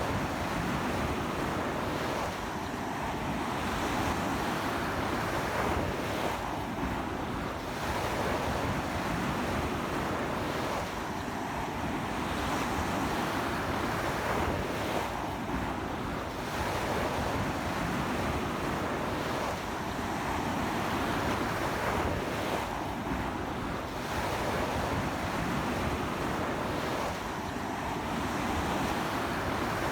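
Sea waves breaking and washing onto a beach in a strong wind, a continuous surf roar that swells and eases every few seconds, with wind buffeting the microphone.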